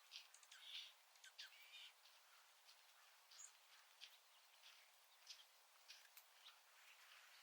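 Faint, scattered short chirps and calls of small birds, several a second at times, over a quiet background hiss.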